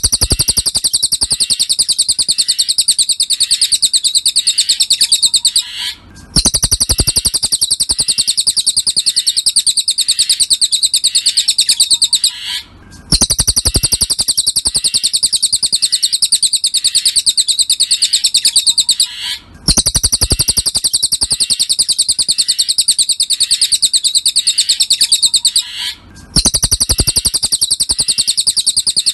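Cililin bird song: a fast, continuous run of high chirps played as a looped tutor recording. It breaks off briefly about every six and a half seconds and then starts again.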